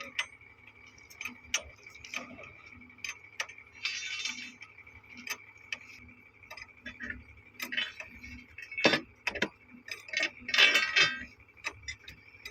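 Scattered sharp metallic clicks and clinks, as of hand tools on metal fittings, with a short rattling scrape about four seconds in and a louder one near the end. A steady high cricket-like drone runs underneath.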